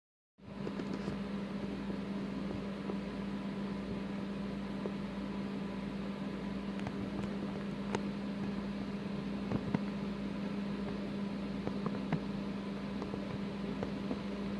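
Steady electrical-sounding hum over even hiss, with a few faint clicks scattered through it.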